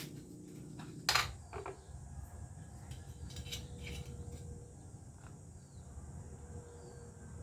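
A single sharp knock or clatter about a second in, followed by a few lighter clicks, over a steady low rumble and a faint high insect-like hum.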